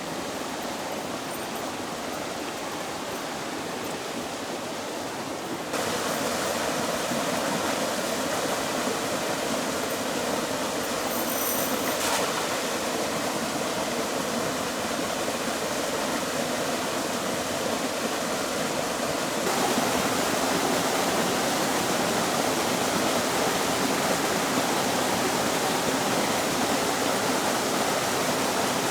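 Steady rush of flowing water, which gets louder abruptly about six seconds in and again about twenty seconds in. There is one brief click about twelve seconds in.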